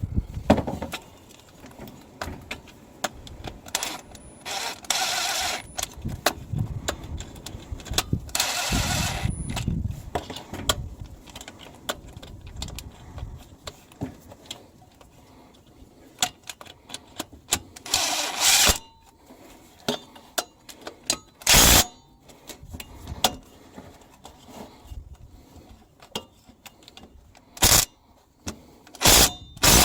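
Cordless Milwaukee quarter-inch impact driver run in several short bursts, driving bolts in, with small metal clinks of sockets and tools between the bursts.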